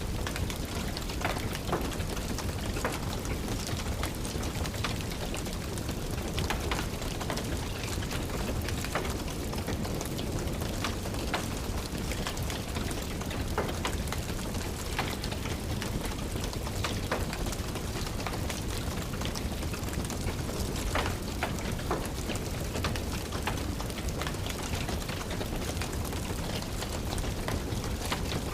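Steady rain with a deep rumble beneath it, and a crackling fireplace fire giving off scattered, irregular sharp pops.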